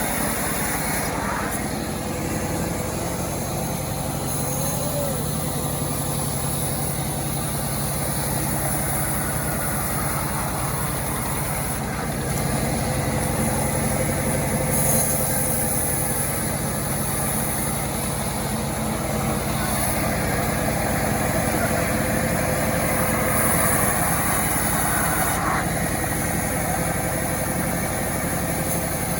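A home-built chainsaw's engine running steadily at an even speed.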